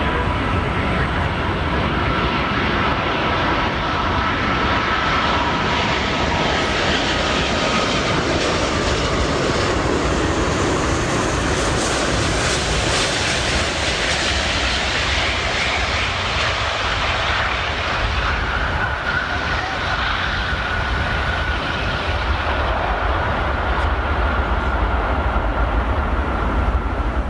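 Jet airliner engines running loud and steady: a low rumble with a high whine held over it.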